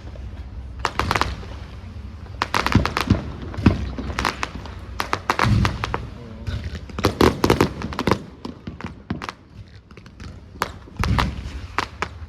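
Fireworks display going off: sharp bangs and crackling in clustered bursts, with a few deeper booms.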